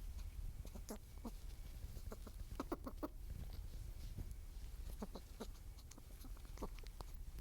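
Scattered short clucks and clicks from small animals, bunched together about two and a half seconds in, over a steady low rumble.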